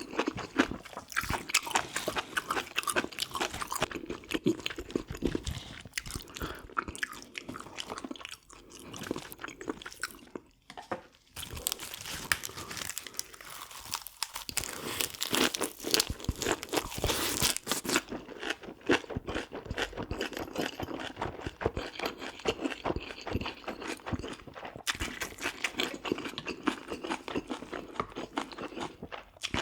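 Close-miked chewing and eating: a person chewing food with wet, crunchy bites and mouth noises, pausing briefly about ten seconds in.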